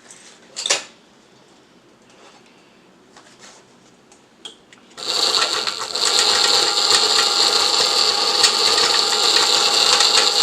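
A DIY electric motorbike's motor, fed about 15 volts, switched straight on about five seconds in and running steadily with a whine over a rapid clatter. It runs at full speed, as there is no speed controller, only on and off.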